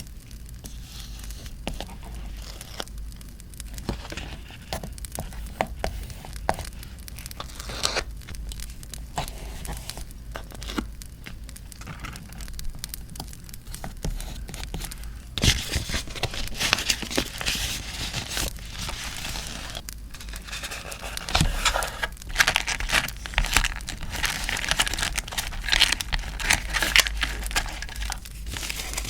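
Paper crinkling, rustling and tearing close to the microphone, with small taps and clicks. It is sparse at first and becomes busier and louder about halfway through.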